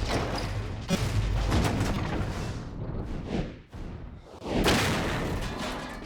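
Film sound effects of a train wreck: a run of explosions and crashing wreckage, with sudden hits and swelling rushes of noise, the loudest beginning about four and a half seconds in.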